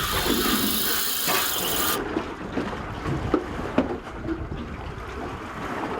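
Fishing reel's drag screaming as a big southern bluefin tuna pulls line, then cutting off suddenly about two seconds in: the leader knot has pulled out and the fish is lost. After it, water and boat noise with a couple of sharp knocks.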